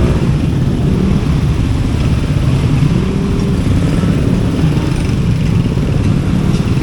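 Road traffic close by: motor vehicle engines, motorcycles among them, running and passing in a steady low rumble.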